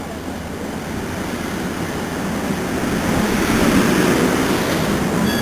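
Commuter train, led by a cab car, rolling past close by: a steady rumble of steel wheels on rail that grows louder as the coaches come alongside.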